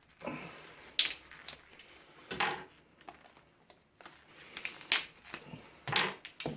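Sharp clicks and knocks of hand tools, pliers among them, working on a fan's metal and plastic parts, with four louder knocks spread across the few seconds between smaller ticks.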